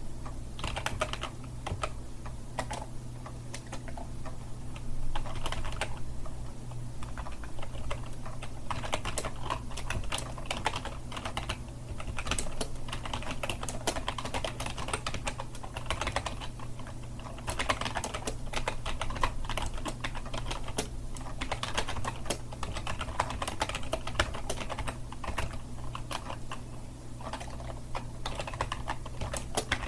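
Continuous, fast typing on a computer keyboard: a dense, irregular patter of key clicks with short pauses, over a steady low hum.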